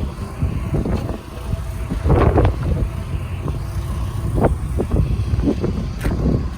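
A car engine running close by: a low rumble that rises and falls unevenly, loudest about two seconds in.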